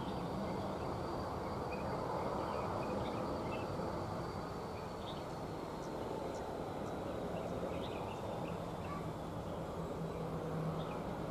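Outdoor ambience: a steady low rumble of distant engines, with many short bird chirps scattered through it and a faint thin high whine.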